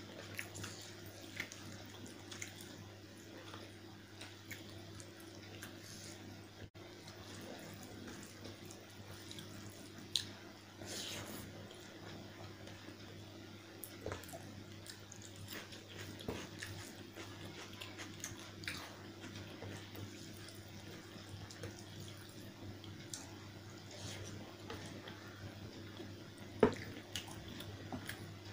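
Wet, sticky chewing and mouth clicks of a person eating chicken curry with rice, in scattered small ticks with one sharper click near the end, over a steady low hum.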